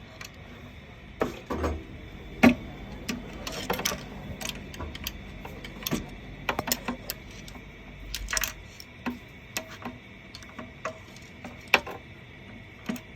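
Irregular clicks and knocks from a KBC 0820CD paper shredder's mechanism, over a low hum that stops about eight and a half seconds in.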